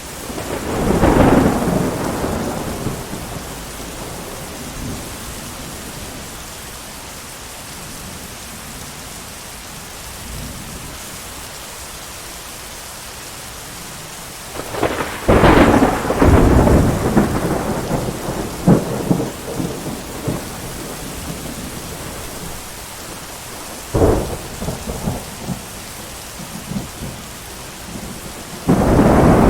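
Thunderstorm: steady heavy rain hiss with rolling thunder. Thunder swells about a second in and again mid-way with a long rumble. A sharp crack comes later, followed by rumbling, and another peal near the end.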